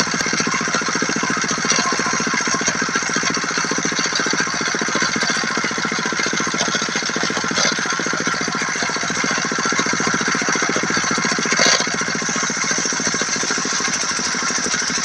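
Diesel engine of a mobile circular-saw rig running steadily with a fast, even knocking beat, one sharper knock late on.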